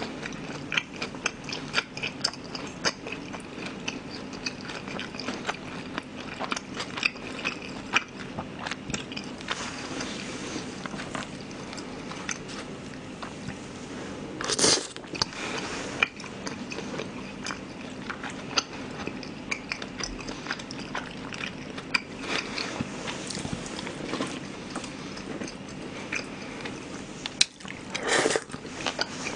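Chewing close to a microphone: a person biting and chewing glutinous-rice-battered sweet and sour shrimp, a steady run of small wet clicks and smacks. The batter has gone soft and less crispy, so there is little crunch. Two louder bites come about halfway through and near the end.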